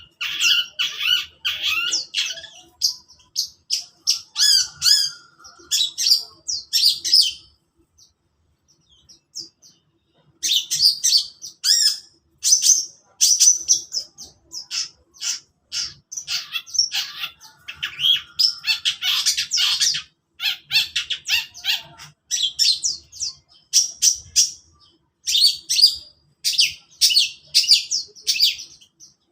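Long-tailed shrike (cendet) singing: fast runs of short, sharp, high-pitched chattering notes, with a pause of a few seconds about a quarter of the way in before the song resumes.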